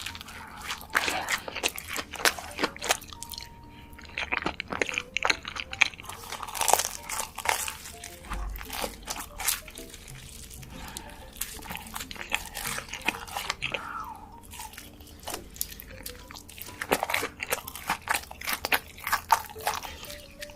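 Close-miked eating sounds: irregular crisp crunching bites and chewing, with many sharp crackles.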